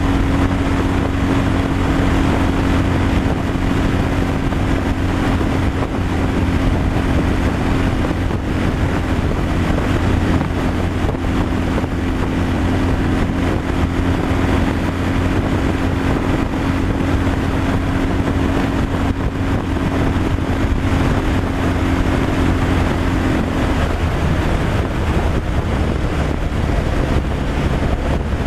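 A heavy truck's diesel engine running steadily at cruising speed, with road and wind noise. The engine note changes about four seconds before the end.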